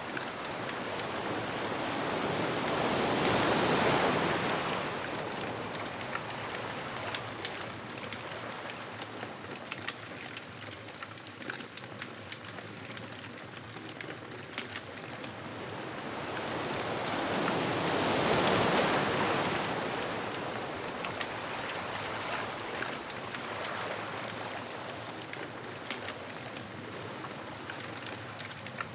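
Ocean waves breaking on a beach, two slow swells of surf that build and wash back, the first about four seconds in and the second about eighteen seconds in. Small crackles of a bonfire run through the whole stretch.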